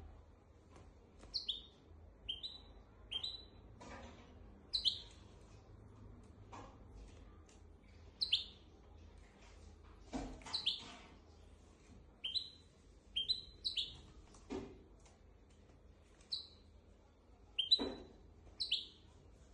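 Hybrid finch (goldfinch × canary mule) singing in short, separate chirping notes, about one a second with brief pauses, with a few soft clicks among them.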